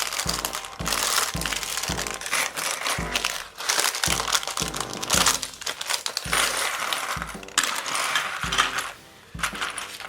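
LEGO pieces and their packaging being handled: rustling and clattering with sharp clicks, over background music with a steady bass beat about twice a second.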